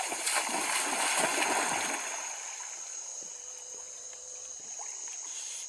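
Water splashing from a black caiman in the water, loudest for the first two seconds and then dying down. A steady high insect drone runs underneath.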